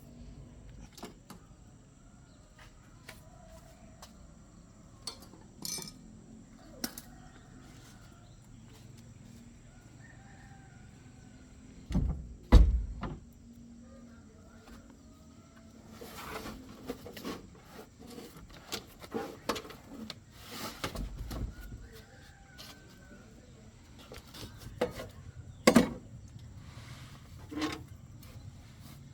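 Scattered clinks and knocks of hand tools working on a car, with two heavy thumps, the louder one about twelve seconds in and another a little past the middle. Faint bird calls chirp in the background.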